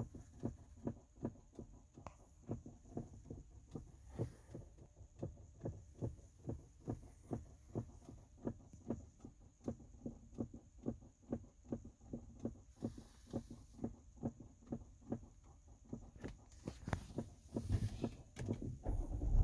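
A repeated soft knock or click, about two to three a second at an even pace: the odd noise the owner is showing in a 2018 Chrysler Pacifica. A louder rumble builds in near the end.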